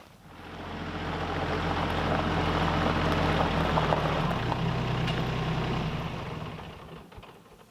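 Engine of a passing motor vehicle, swelling up, peaking and fading away over about seven seconds, its pitch dropping slightly as it goes by.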